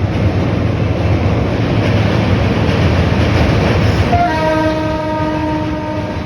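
Train running with a loud, steady rumble, hauled by a WAG-9 electric locomotive. About four seconds in the locomotive sounds one horn blast of about two seconds, its pitch sagging slightly.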